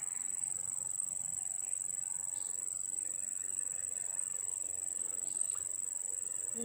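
Insects trilling steadily at one high pitch, a continuous unbroken chorus.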